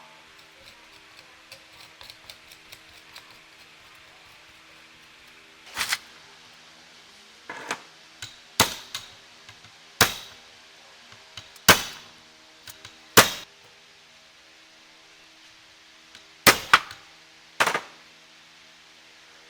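About nine sharp, hard knocks at irregular spacing, several in quick pairs, over a faint steady hum. A run of small light ticks comes before them.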